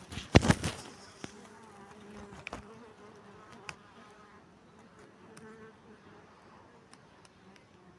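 Asian honey bees (Apis cerana) buzzing in a faint, steady hum, with scattered clicks. A few loud knocks come in the first second.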